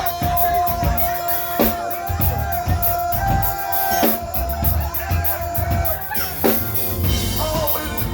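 Band music: a drum kit and bass under a sustained melody line, with a few loud drum hits.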